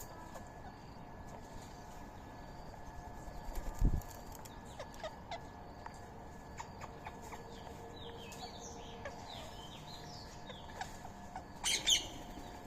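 Indian ringneck parrots at a feeding spot: scattered small ticks and short chirps, a run of ticks ending in a low thump about four seconds in, and a loud harsh squawk just before the end.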